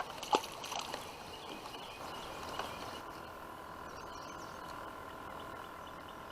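Quiet river ambience: a few light knocks or splashes in the first second, then a faint steady hum with faint bird chirps.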